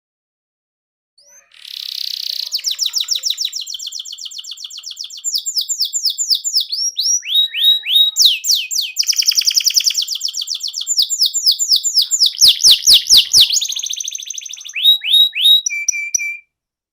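Canary singing a long, loud song of fast trills and rapidly repeated sweeping notes, with a short run of sharp clicks about three-quarters of the way through. It starts about a second and a half in and cuts off suddenly near the end.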